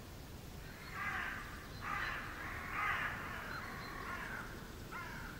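Harsh bird calls: three loud calls about a second apart, then fainter and shorter ones near the end, over a low steady background rumble.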